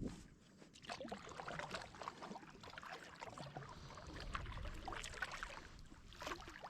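Water splashing and trickling against a kayak's hull as the kayak moves along, in small irregular splashes.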